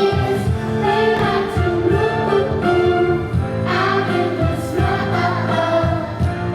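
Choir singing a holiday song over instrumental accompaniment, with held notes and a steady low bass line.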